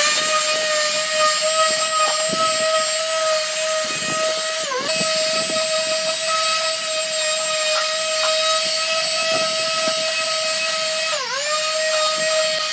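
Handheld electric power tool spinning up and running at high speed with a steady high whine. Its pitch dips briefly twice and recovers each time.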